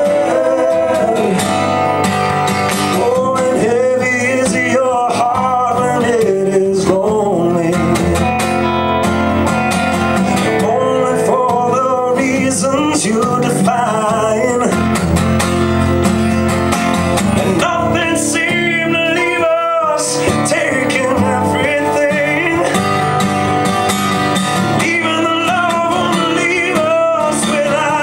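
Live music: a guitar playing with a singing voice, a country-style song.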